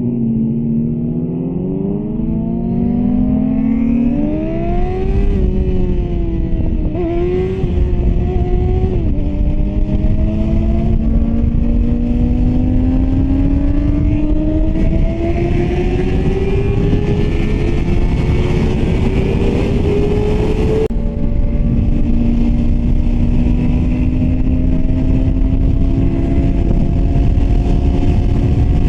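Yamaha R6 sport bike's inline-four engine accelerating through the gears. Its pitch climbs and drops back at each of several shifts, then rises slowly and steadily, over heavy wind rumble on the microphone.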